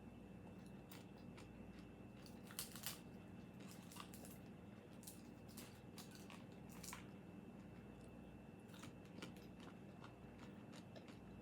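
Person biting and chewing crispy fried chicken skin: faint, scattered crackling crunches, the loudest a couple of seconds in.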